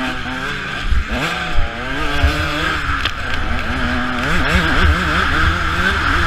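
Motocross bike engine revving up and down with the throttle over the track, its pitch rising and falling again and again, over a steady rush of wind on the camera and a few low thumps.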